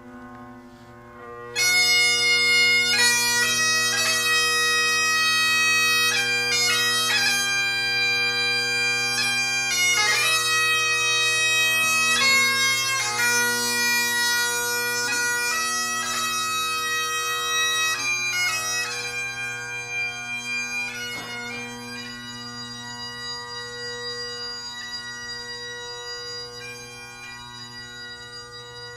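Bagpipes playing a slow lament: the drones strike up first, then the chanter melody enters about a second and a half in over the steady drone. The playing gradually grows quieter over the last third.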